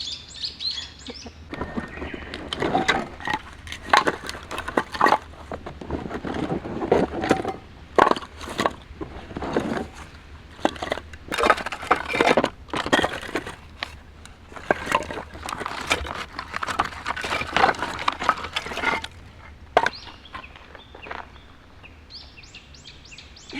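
Dry twigs and small branches snapping and cracking in irregular, quick runs, with short pauses between runs, as kindling is broken up. A bird chirps near the end.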